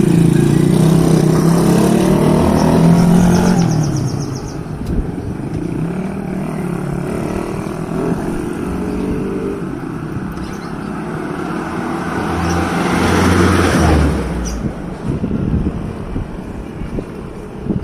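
Passing motor vehicles on a road. An engine passes in the first few seconds, its pitch falling as it goes. A second vehicle grows louder and passes about 12 to 14 seconds in.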